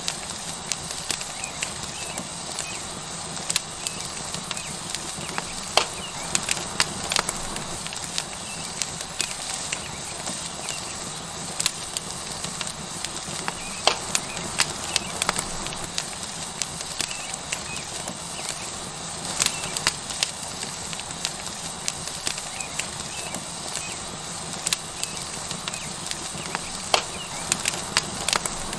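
Tomahawk steak sizzling on a hot rock over a wood fire: a steady hiss of frying fat, broken by irregular sharp pops and crackles from the burning wood.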